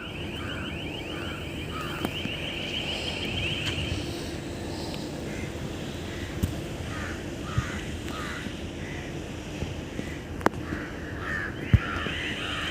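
Birds calling over steady outdoor background noise: short calls repeat about twice a second, with a high rapid trill over the first few seconds and again near the end, and a few sharp clicks.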